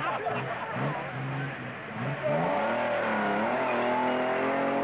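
Hot rod engine revved hard during a tyre-smoking burnout: uneven and quieter for the first two seconds, then jumping up loudly about two seconds in to high revs that sag briefly and climb back, held steady to the end.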